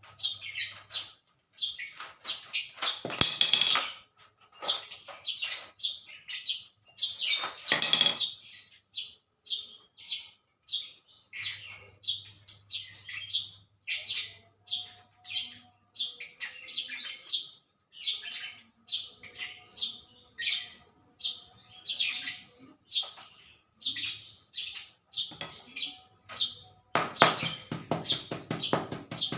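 Small birds chirping in many short, repeated high calls, a few louder than the rest, with a dense run of rapid short sounds near the end.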